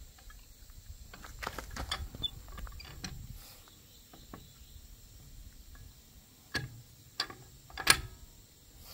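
Wheel nuts and a wheel brace clicking and clanking as a wheel is refitted after a tyre puncture repair, with three sharp knocks in the second half, the last the loudest.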